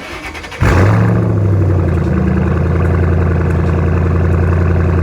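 Car engine cranked by the starter, catching about half a second in, flaring up briefly and then settling into a steady idle, heard through a newly fitted aftermarket axle-back exhaust.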